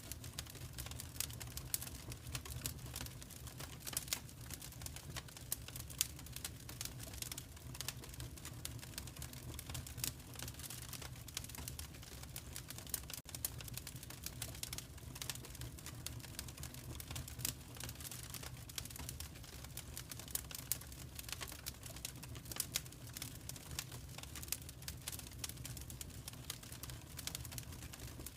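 Fire in a fireplace crackling: a dense, irregular run of small sharp pops and snaps over a low steady rumble.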